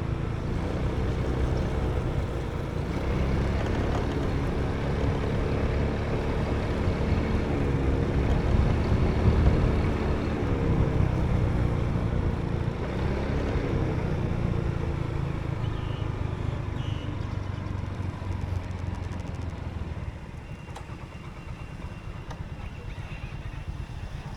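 Motorbike engine running while riding, its pitch rising and falling with the throttle over a steady low rumble of wind and road noise, quieter for the last few seconds.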